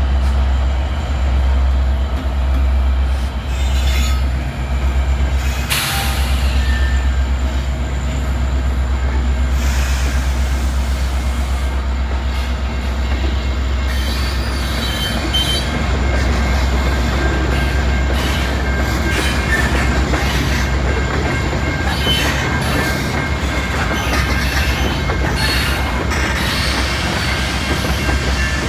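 A Canadian National freight train rolls past over a steady low rumble. Its wheels click over the rail joints again and again, and high-pitched wheel squeal comes and goes in the second half.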